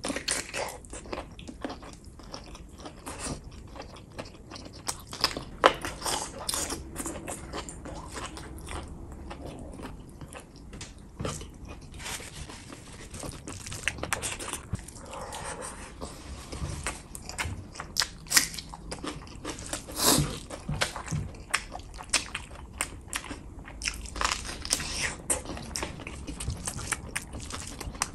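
Close-miked eating: biting into a chicken drumstick, then chewing and lip-smacking on mouthfuls of gravy-soaked rice eaten by hand. It comes as a steady, irregular run of wet clicks and smacks.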